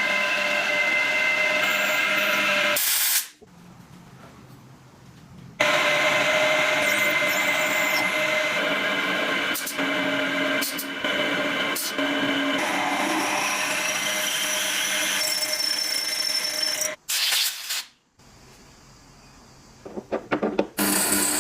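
Power tool motor running steadily with a whine, stopping abruptly a few times and starting up again.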